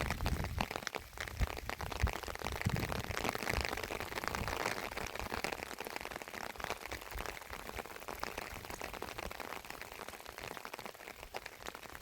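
Rain falling, with many separate drops striking close by over a steady hiss, a little heavier in the first half.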